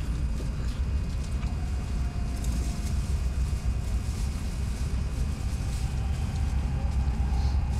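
Steady low rumble of a Shinkansen bullet train heard from inside the passenger cabin while running, with a faint whine that slowly rises in pitch.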